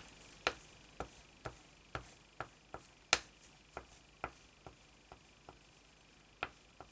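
A run of light taps, about two a second and uneven in loudness, with a short pause near the end.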